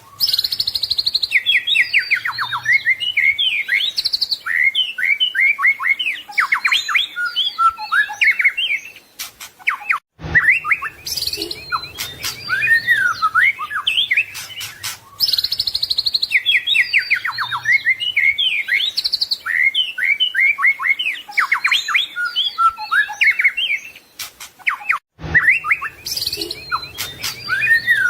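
White-rumped shama (murai batu) singing a fast, varied song of rapid chirps, trills and whistled phrases, with short breaks about ten seconds in and again near the end; the phrases seem to come round again.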